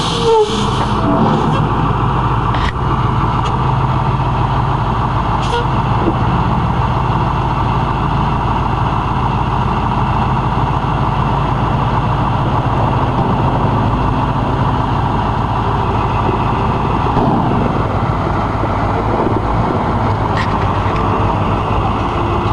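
Dump truck's diesel engine running steadily, an even low drone that holds the same pace throughout.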